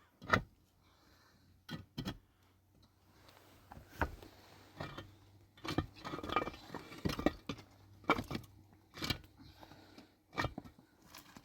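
Irregular clicks, knocks and scrapes of objects being handled, with a busier stretch of scraping and rustling about halfway through.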